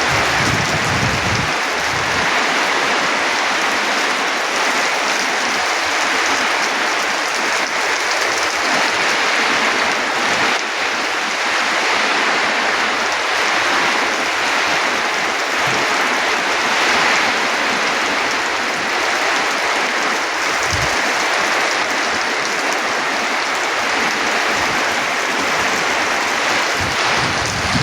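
Heavy rain pouring down in a rainstorm, a loud, steady, even hiss. Brief low rumbles of wind gusts on the microphone come near the start and about two-thirds of the way through.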